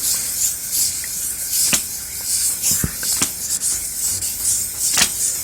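Steel meat mincer cutter blade being rubbed back and forth on sandpaper, lapping its flat face: a scratchy hiss that swells and fades with each stroke, with a few light clicks.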